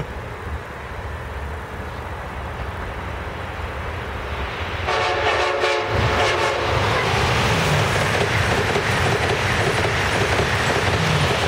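Amtrak Acela Express electric trainset sounding its horn once, for about a second, about five seconds in, over the rising noise of the approaching train. The horn gives way to the loud, steady rush of a passenger train passing close by at speed.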